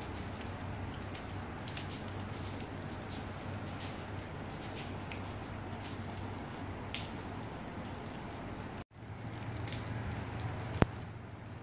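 Light rain: scattered drops ticking close to the microphone over a steady low hum. The sound cuts out for an instant about nine seconds in, and a single sharp click comes near the end.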